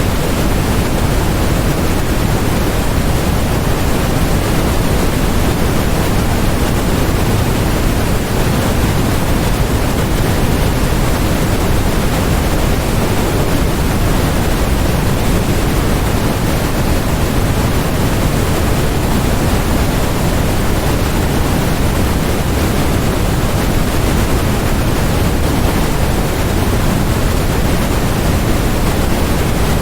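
Constant electronically generated white noise: an even, unbroken hiss with no tones or changes, fuller in the low end than in the highs.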